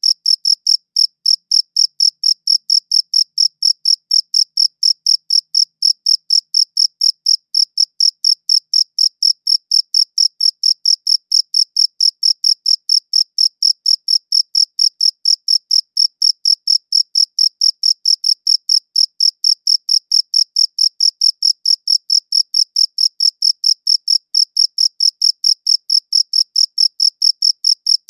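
A cricket chirping in an even, unbroken rhythm, several high-pitched chirps a second.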